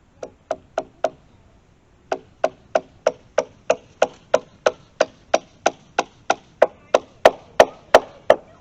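Hammer driving nails into a wooden board: four quick blows, a short pause, then a steady run of about three blows a second, growing louder and sharper near the end.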